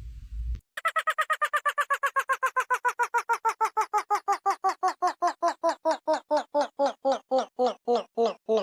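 A quick train of identical short squeaky, quack-like tones that begins under a second in, then slows from about eight a second to about three a second while the pitch falls steadily, like a sound effect winding down.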